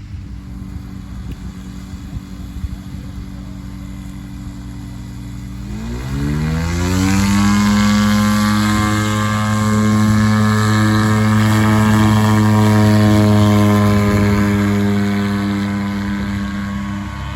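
Light aircraft's propeller engine running at low throttle, then opened up sharply about six seconds in, its pitch climbing fast to a steady full-power note, as for a takeoff run.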